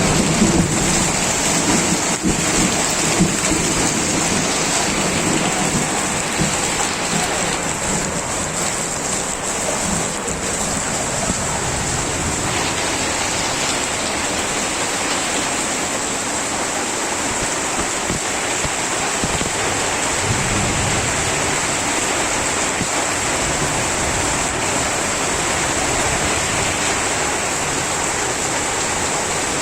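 Heavy rain pouring steadily in a dense hiss during a thunderstorm, with a low rumble of thunder dying away in the first few seconds.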